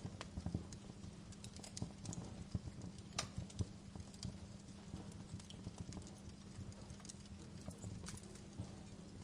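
Wood fire in a fireplace crackling: irregular sharp pops and snaps, several a second, with a louder pop about three seconds in, over a low steady hum.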